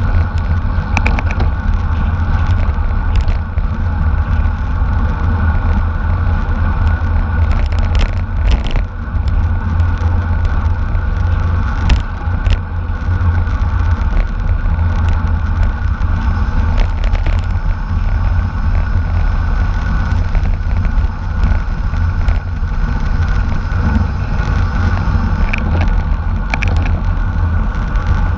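Wind buffeting the microphone as a steady, loud low rumble, with a few short clicks scattered through.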